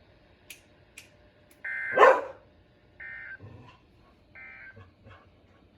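Three short, steady electronic beeps about a second and a half apart, with one loud, sharp yelp-like call right after the first beep and a fainter one after the second.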